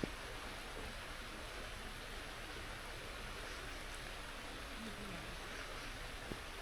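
Steady hiss of light rain falling, with a sharp tap at the very start and another near the end.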